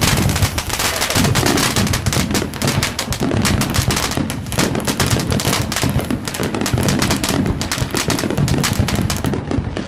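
Fireworks crackling in a dense, rapid string of sharp pops, like a long firecracker chain or a volley of crackle shells, going on without a break.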